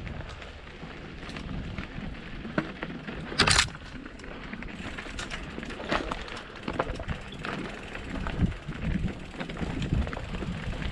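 Mountain bike rattling over a rocky trail: tyres crunching on rock and gravel, with frequent small knocks and clicks from the bike and a sharp clack about three and a half seconds in.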